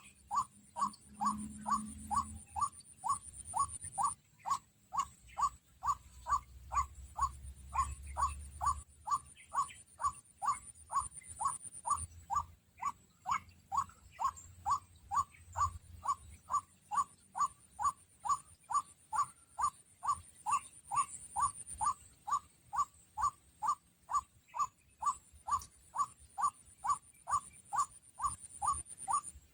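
White-breasted waterhen (kruak) call repeated in a fast, very even series of short rising notes, about two a second, with a faint high steady whine coming and going above it.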